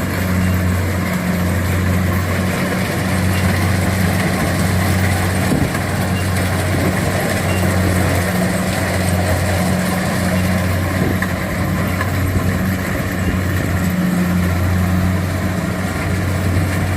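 Kubota DC70 combine harvester running steadily at work, its diesel engine giving a constant low hum that swells and eases slightly.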